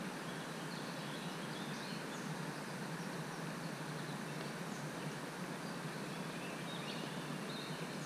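Steady outdoor background hiss with faint, short bird chirps scattered through it.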